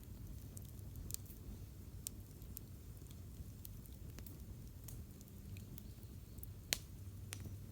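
Wood campfire burning and crackling, with scattered small pops and one sharper pop near the end.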